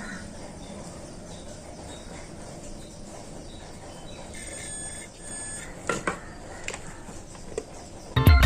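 Birds chirping faintly over a low background hiss, with a few sharp clicks about six seconds in. Music with guitar starts near the end.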